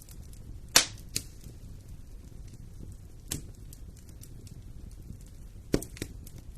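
Wood fire burning in a fireplace: a low steady rumble of flames with faint crackling and a few sharp pops. Two pops come close together about a second in, the first the loudest, one comes in the middle, and two more come near the end.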